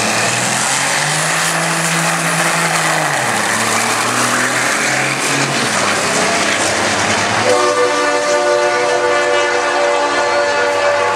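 Cummins diesel engine of a 1960 Kenworth drag truck running under a heavy roar, its pitch dropping about three seconds in. About seven and a half seconds in, a loud air horn starts and is held on one steady chord.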